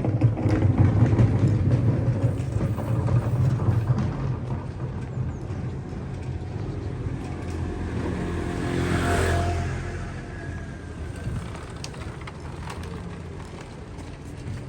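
City street traffic with a steady low rumble, and a vehicle passing close by about nine seconds in, its sound swelling and then fading.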